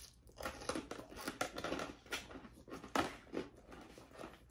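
Close-up chewing of a mouthful of crisp salad lettuce, a run of irregular wet crunches about two a second. Near the end a fork picks at the salad in a plastic container.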